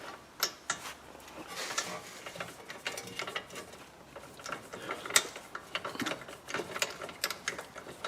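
Ratchet wrench clicking in quick, uneven runs as the mounting bolts of a new front wheel bearing hub are run in.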